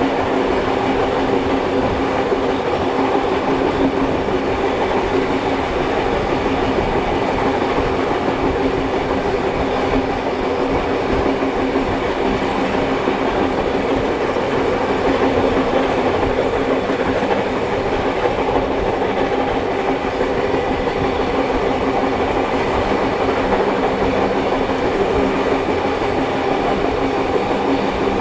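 A train running at steady speed, heard from aboard a carriage: a continuous, even rumble of wheels on the rails with a few faint steady tones underneath.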